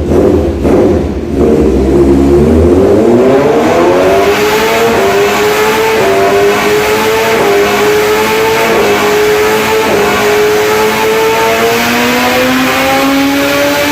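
Kawasaki ZX-6R inline-four engine through an Austin Racing aftermarket exhaust, revving on a dyno. A few sharp blips come first, then from about two seconds in a long pull with the pitch climbing steadily.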